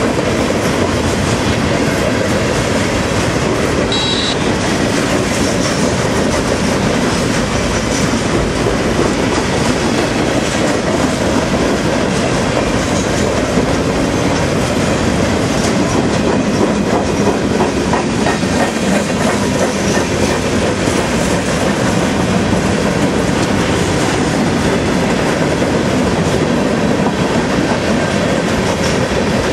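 CSX freight train's cars rolling past close by: a steady, loud rumble of steel wheels on the rails, with a brief high squeal about four seconds in.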